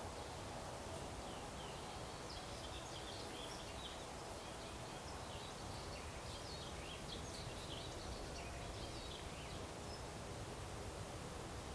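Faint twittering of small birds, a scattered run of short high chirps starting about a second in and fading out near the end, over a steady background hiss and hum.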